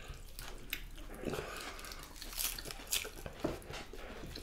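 People chewing food close to the microphone, with scattered short, wet mouth clicks.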